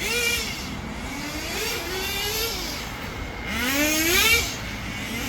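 Kyosho V-One R4 nitro RC touring car's small glow engine running on track, its high-pitched whine rising and falling with throttle, and a sharp climb in pitch about three and a half seconds in as it accelerates.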